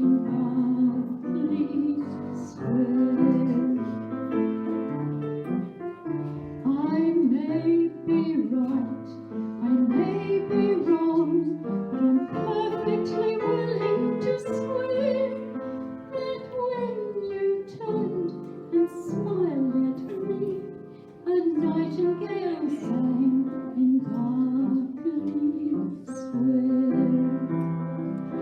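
Live music: a wavering, bending melody line carried over piano accompaniment, with no words sung.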